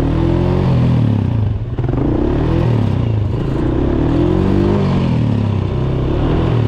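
Dirt bike engine revving, its pitch climbing and falling again and again, with a brief drop in loudness a little under two seconds in.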